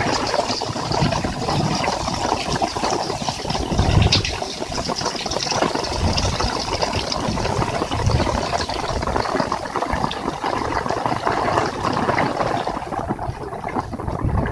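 Heavy rain falling hard, a dense steady hiss with a rattling patter, while gusts of wind buffet the microphone in low rumbling swells. The high hiss of the rain thins near the end.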